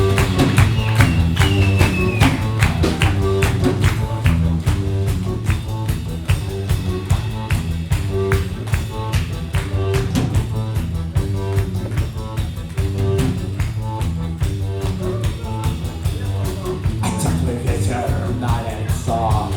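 Live rock band playing an instrumental passage: drums keep a steady beat under a repeating bass line, and a wavering melody line comes in near the end.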